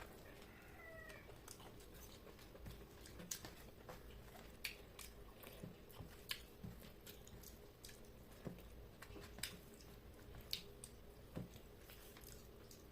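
Faint eating sounds: scattered sharp clicks of chewing and mouth smacking while eating rice and chicken curry. A brief, faint wavering tone comes about a second in.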